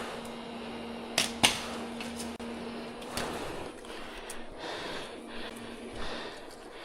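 Honeybees humming steadily, fading after about three seconds. Two sharp cracks come a little over a second in, with fainter clicks later.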